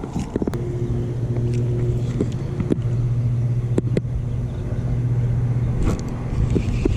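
Boat motor running at a steady, even pitch. Several sharp clicks and knocks, likely from handling tackle or the boat, sound over it.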